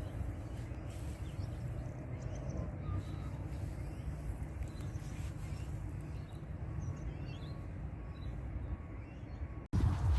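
Outdoor ambience: a steady low rumble with faint, scattered high bird chirps, cut off abruptly near the end.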